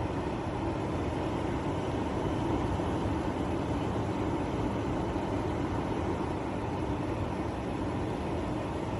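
Pro Breeze 20-litre dehumidifier running with a steady whirring hum from its fan and compressor.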